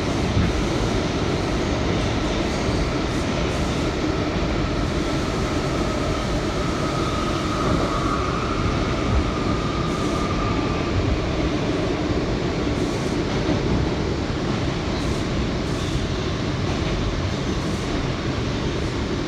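R179 subway train running at speed through the tunnel, a steady rumble of wheels on rail. A high whine swells in the middle and fades away again.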